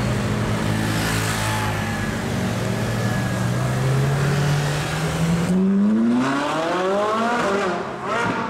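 Supercar engine accelerating hard: its note holds steady, then climbs slowly and sweeps steeply up in pitch about five and a half seconds in, with a short drop and a fresh rise near the end.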